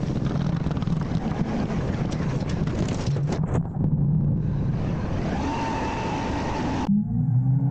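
Garbage truck's diesel engine running under load, with a few clattering knocks a little before halfway. About two-thirds of the way in, a hydraulic whine rises and then holds steady. The sound breaks off abruptly near the end.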